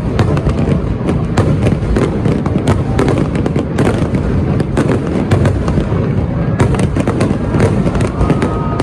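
Fireworks display with many shells going off in rapid succession: a constant rumble of booms overlaid with crackling bangs.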